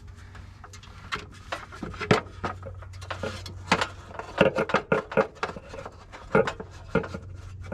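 Sheet-metal air cleaner lid being handled and fitted over a new air filter: a run of irregular light metallic clanks, knocks and scrapes.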